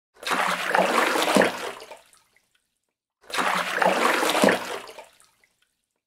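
Water splashing and sloshing, heard as two matching bursts of about two seconds each, a second apart.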